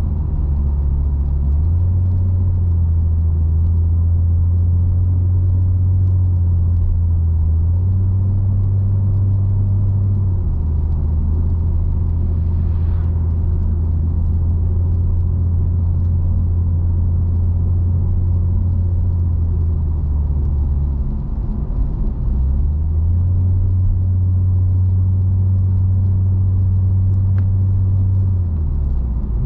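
Nissan Skyline V36 coupe on the move: a steady deep drone of engine and road noise, whose pitch shifts in steps a few times, with a brief dip and climb about two-thirds of the way through and again near the end, as with gear changes.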